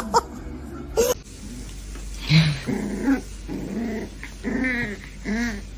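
A dog growling and grumbling in about five short, rising-and-falling vocal calls.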